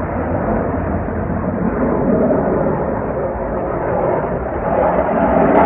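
Military jet aircraft flying past, a steady engine noise that holds throughout.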